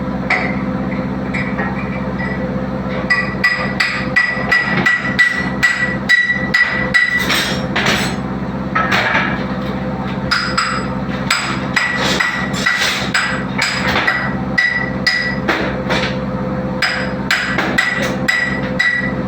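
Hammer striking metal in quick runs of about three to four blows a second, each blow ringing. The runs stop and start several times over a steady low hum.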